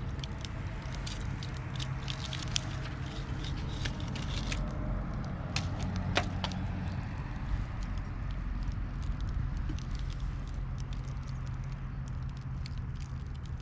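Wood campfire crackling, with irregular sharp pops that come thickest in the first half. A steady low hum runs underneath.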